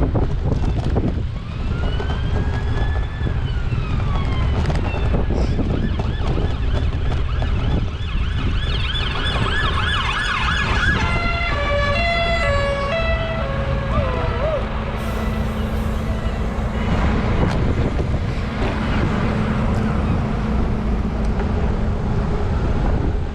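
Emergency vehicle siren heard through heavy wind noise on the microphone. It starts with slow rising and falling wails, switches partway through to a fast warbling yelp, then to quick stepped alternating tones, and ends with a short glide.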